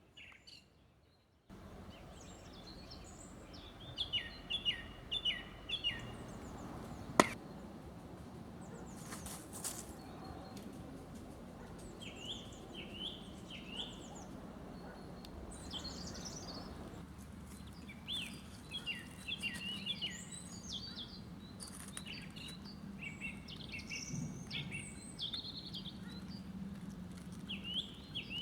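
Several forest songbirds singing, with short, repeated, sliding phrases overlapping one another over a steady background hiss. A single sharp click about seven seconds in stands out above the birdsong.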